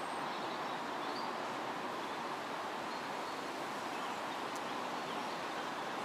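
Wind blowing steadily through trees, a constant rustling hiss of leaves.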